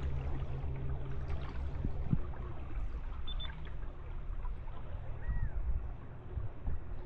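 River water moving and gurgling against a kayak, with low rumble from wind on the microphone. A steady low hum stops about two seconds in, and a short high whistle rises and falls a little past five seconds.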